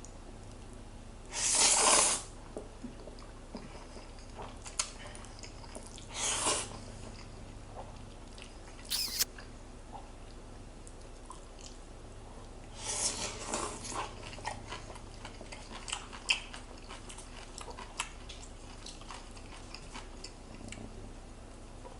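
Eating sounds: a few short noisy bursts of eating, the loudest about a second and a half in, among scattered light clicks, with a faint steady hum underneath.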